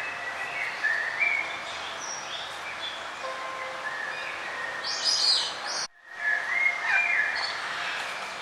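Several songbirds chirping and warbling in short phrases over a steady background hiss of outdoor ambience. The sound cuts out briefly about six seconds in, an edit in the recording, and the birdsong resumes at once.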